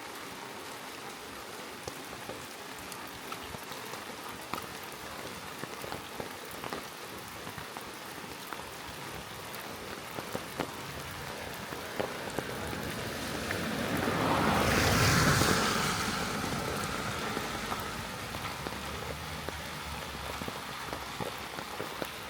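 Steady rain falling, with scattered drops ticking close by. About two-thirds of the way in, a louder noise swells up and fades away over about four seconds.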